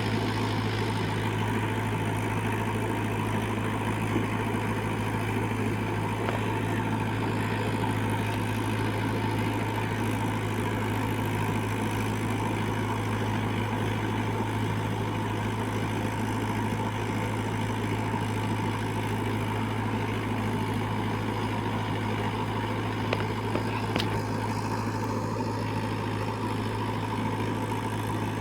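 Mahindra 475 DI XP Plus tractor's four-cylinder diesel engine running at a steady speed, with an even low hum that neither rises nor falls.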